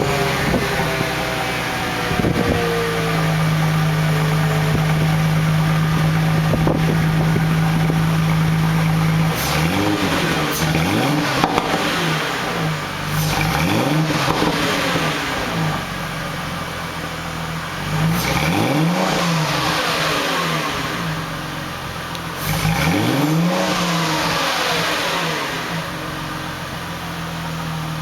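Straight-piped exhaust of a Chrysler Crossfire SRT-6's supercharged 3.2-litre V6, with the stock muffler deleted. It idles steadily, then is revved in several throttle blips whose pitch rises and falls, and settles back to idle near the end.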